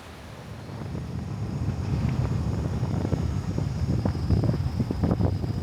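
Wind buffeting the microphone: an irregular low rumble that grows louder about a second in, with a faint steady high tone in the background.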